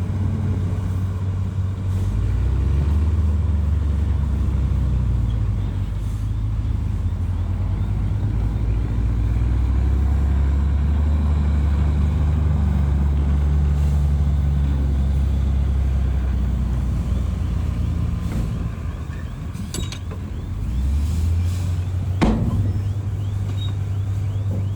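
Bulldozer's diesel engine working under load, with its pitch rising about two seconds in, easing off and dropping near the end, then rising again. Two sharp knocks sound near the end.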